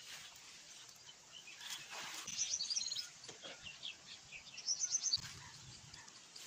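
A small bird singing in two bursts of rapid, high chirps, the first about two seconds in and the second about five seconds in.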